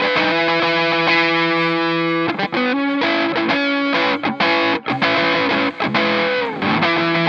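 Clifton dual-humbucker Telecaster-style electric guitar played through distortion. It holds a ringing chord for about two seconds, then plays a run of short, choppy notes with brief breaks, slides down near the end and settles on a sustained chord again.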